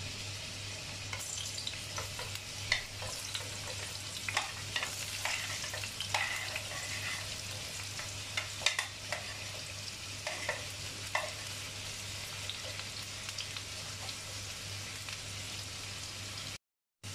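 Diced potatoes sizzling as they are spooned into hot cooking oil in a frying pan. Clinks of the metal spoon on the plate and pan are scattered through the first eleven seconds or so, then the frying settles into a steady sizzle, which cuts out briefly near the end.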